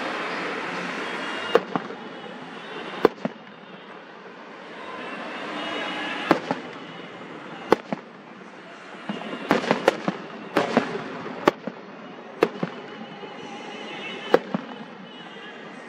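Aerial fireworks bursting: about fifteen sharp bangs at irregular intervals, some in quick pairs and clusters, with a crackling hiss between them.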